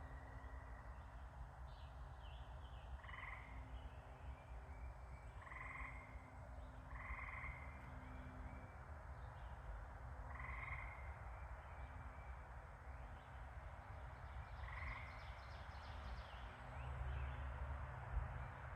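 A frog croaking about five times, short calls a few seconds apart, over a steady outdoor background hiss.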